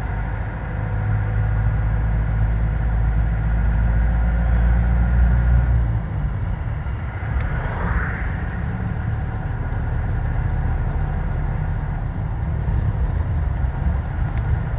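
Steady low rumble of a motor vehicle running, heavier for the first six seconds, with a short higher-pitched sound about eight seconds in.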